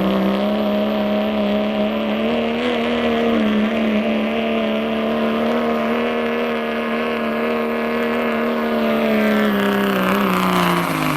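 2000 Dodge pickup's Cummins turbodiesel held at high revs under full load on a pulling sled, the note steady with small wavers and a thin high whistle above it. Near the end the revs fall away sharply as the throttle comes off.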